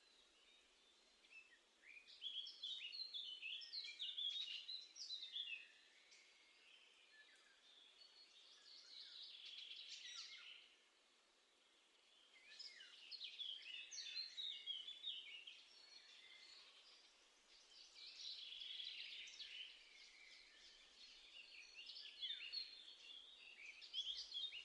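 Songbirds singing in high, busy phrases a few seconds long, about five of them with short quieter gaps between.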